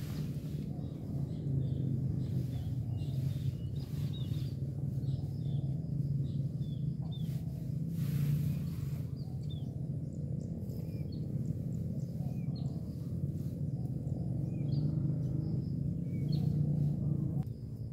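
Small birds chirping in short repeated calls over a steady low rumble, with a couple of brief rustling noises; the low rumble cuts off abruptly near the end.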